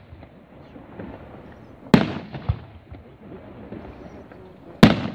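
Aerial firework shells going off: two loud, sharp bangs about three seconds apart, each followed about half a second later by a softer, lower thud.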